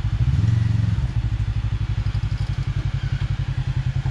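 Side-by-side UTV engine running at low speed with a steady, rapid low pulsing, swelling briefly with a short rev about half a second in before settling back.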